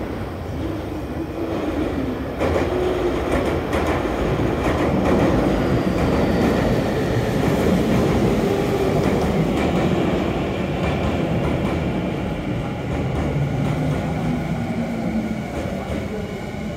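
Saitama Railway 2000 series electric train pulling out of the station: the wheels rumble on the rails while the traction motors give a whine that climbs in pitch as it speeds up. The sound gets louder about two seconds in, then fades as the train draws away.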